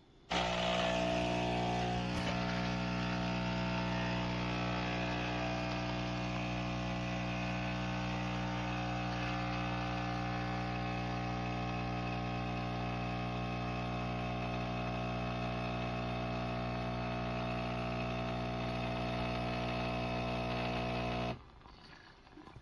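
Philips 4300 Series automatic espresso machine's pump buzzing steadily as it dispenses a cappuccino, then cutting off suddenly near the end as the drink finishes.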